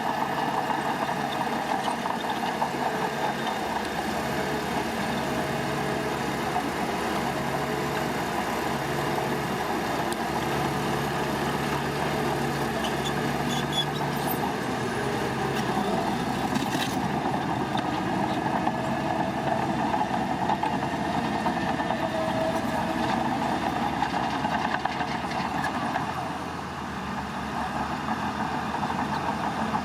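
Diesel engine of heavy construction machinery running steadily, dipping briefly near the end.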